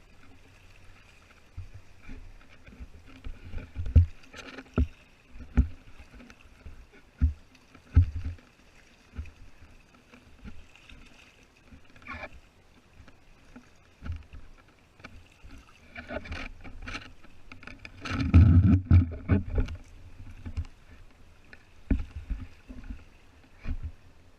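Water knocking and splashing against the hull of a Hobie Tandem Island kayak under way at sea: irregular low thumps over a faint steady hiss, with a louder run of splashes about eighteen seconds in.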